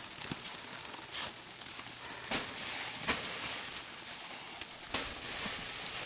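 Outdoor ambience in heavy falling snow: a steady soft hiss with a few scattered light clicks and crunches.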